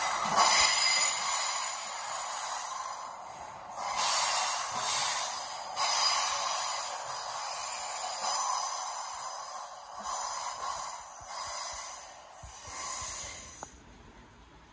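Electric multiple-unit train moving through the station: a rushing rail and wheel noise that swells and fades in several surges, then cuts off abruptly near the end.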